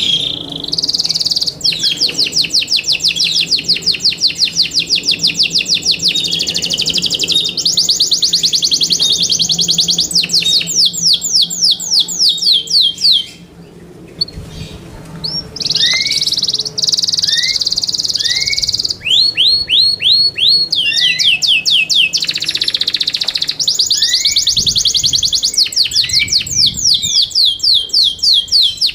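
Yorkshire canary song: long, fast trills of quickly repeated high notes, one rolling phrase after another, with a short pause about halfway through.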